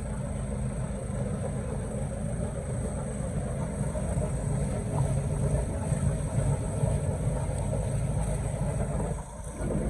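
Canal tour boat's engine running steadily, a continuous low drone with water and wind noise over it, briefly dropping away about nine seconds in.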